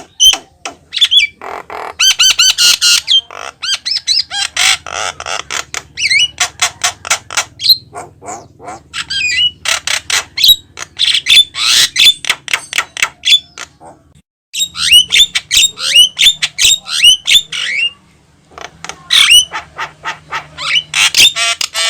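Javan myna in full song: a loud, rapid, varied run of harsh squawks, clicks and short whistles that breaks off briefly twice.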